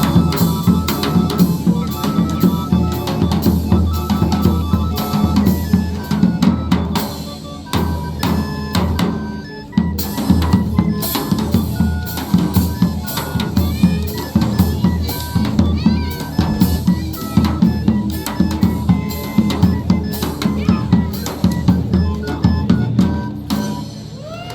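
A chinchinero's chinchín, a bass drum worn on the back and a pair of cymbals, played in a quick steady beat of drum and stick strikes, with held melodic notes underneath. The playing dies away near the end.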